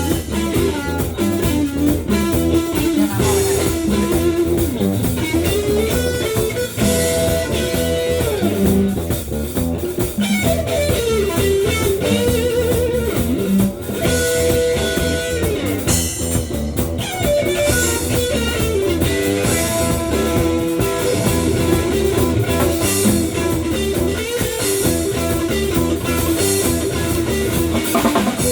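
Band playing a blues-rock number: a guitar lead line with bent notes over bass guitar and drum kit.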